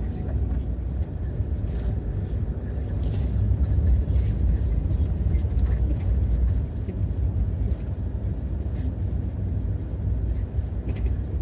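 Campervan driving on the road, heard from inside the cab: a steady low engine and road rumble with a few faint clicks and rattles.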